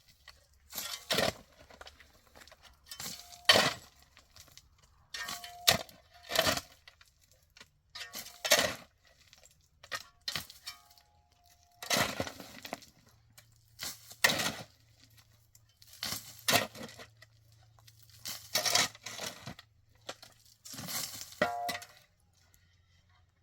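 A series of sharp cracking knocks, about one every one to two seconds, some with a brief ringing note after the hit.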